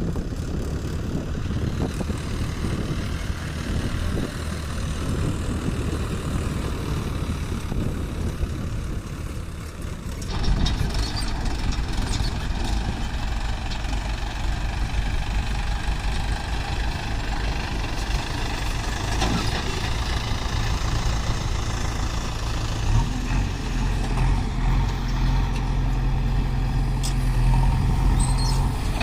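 Diesel engine of heavy machinery running steadily. About ten seconds in the sound changes abruptly to a louder, deeper engine note, which grows heavier again near the end.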